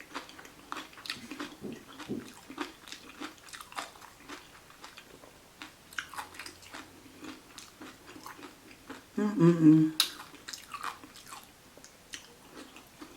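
Close-up chewing of a mouthful of vegan salad taco: wet crunching and frequent small mouth clicks. About nine seconds in there is a brief, louder voiced sound from the eater.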